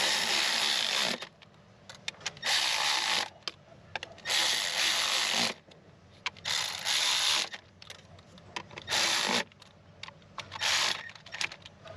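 Ratchet wrench with an 8 mm socket running small 6 mm cover bolts down, working from the center out. It comes in six bursts of about a second each, roughly two seconds apart, with small clicks between them.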